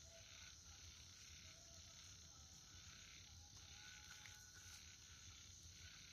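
Faint steady high-pitched insect chorus, with soft chirps repeating about once a second.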